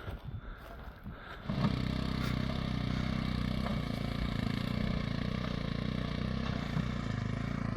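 A motor vehicle's engine running steadily, starting abruptly about a second and a half in.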